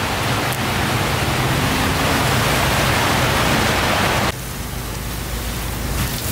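Food frying in hot oil: a dense, steady sizzle that drops suddenly to a quieter sizzle about four seconds in.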